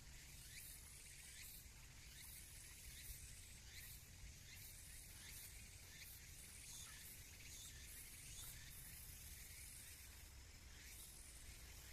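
Near silence: faint outdoor ambience with a steady high hiss, a low rumble and a few faint short chirps.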